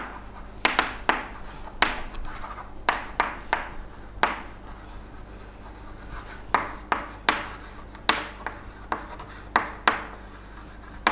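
Handwriting: a series of short, sharp scratching strokes of a pen or marker on a writing surface, irregularly spaced, over a faint steady electrical hum.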